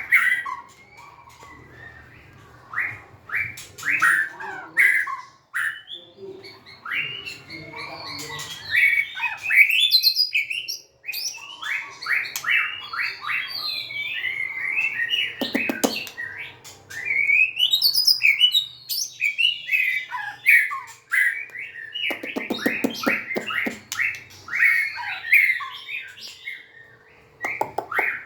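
White-rumped shama singing: a long, varied run of whistled phrases, sweeping notes and rapid chirps, broken by a few harsh buzzy calls about halfway through and again later.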